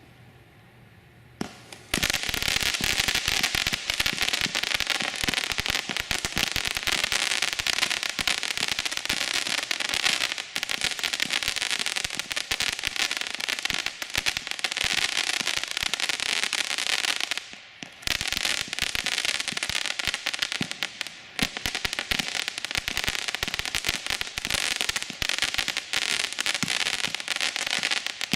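Shogun "Bring It On" consumer fireworks cake firing: after a couple of quiet seconds, a dense, unbroken barrage of crackles and bangs starts and keeps going, with a short lull about two-thirds of the way through.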